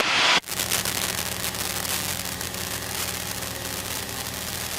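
A light plane's 100-horsepower piston engine running steadily, heard as a hum under a crackly hiss through the headset intercom. A burst of hiss cuts off suddenly in the first half second.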